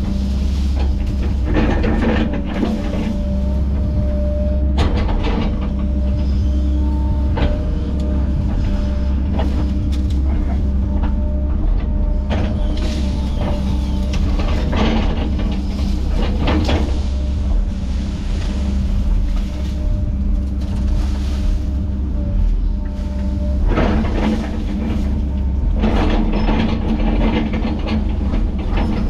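Heavy tracked diesel machinery working: a steady, loud engine drone with repeated sharp cracks and clanks, and a thin whine that comes and goes.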